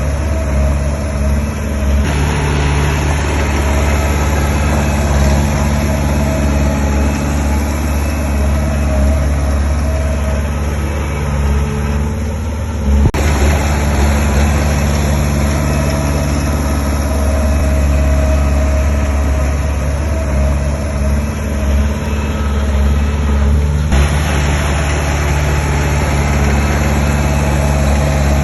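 Heavy diesel engine of earthmoving machinery running steadily at a low, even pitch. The noise over it shifts abruptly a few times, with a brief dip and a single knock about halfway through.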